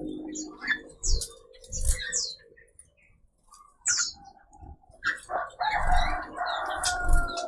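A mix of small songbirds in an aviary chirping and calling in short, sharp notes and quick falling whistles, with a denser burst of chatter starting about five seconds in. A few low thumps sound among the calls.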